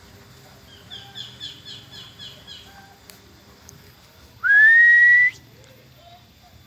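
A songbird chirping a quick run of about seven short notes, then a loud whistle that rises and holds one steady pitch for about a second.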